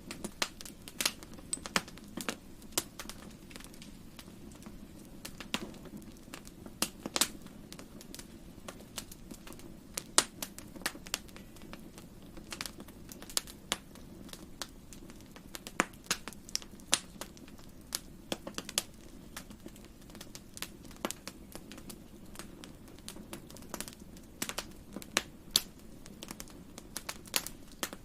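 Wood fire crackling in a fireplace: irregular sharp pops and snaps, several a second, over a steady low rush of the burning fire.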